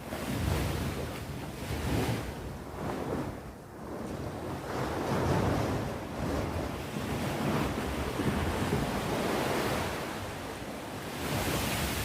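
Sea waves breaking and washing on the shore in repeated swells every couple of seconds, with some wind noise on the microphone.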